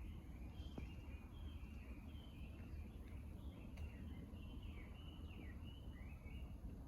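Small birds chirping faintly and often, in short high calls, some of them falling in pitch, over a low steady rumble.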